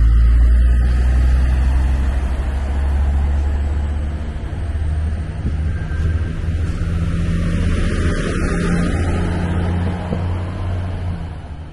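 Diesel multiple unit running past close by: a loud, steady low engine rumble with a hum above it and a faint high whine that rises slowly. The sound eases slightly after the first couple of seconds.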